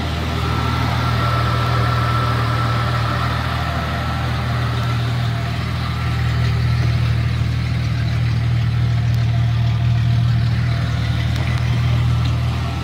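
Jeep Cherokee engine idling steadily with the air-conditioning compressor engaged.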